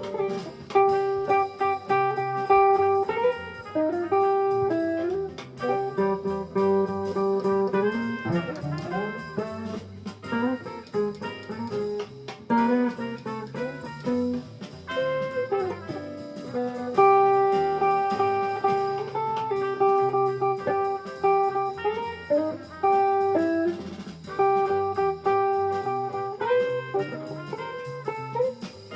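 Jazz guitar playing a melody, with long held notes that move in steps between shorter phrases.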